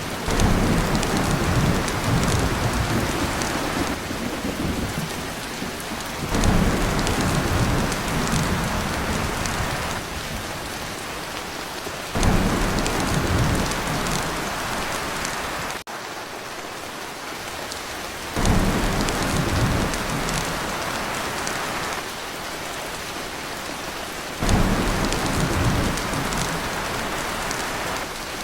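Heavy rain on a tin roof with thunder rumbling. A new low roll starts suddenly about every six seconds and fades away.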